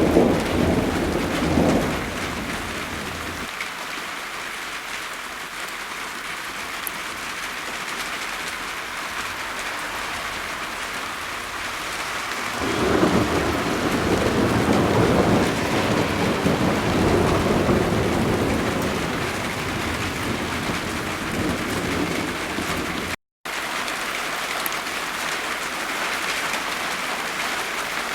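Steady rain falling, with thunder rumbling over it: a rumble fading in the first few seconds, then a longer rolling peal from about halfway through that swells and slowly dies away. The sound drops out for an instant near the end.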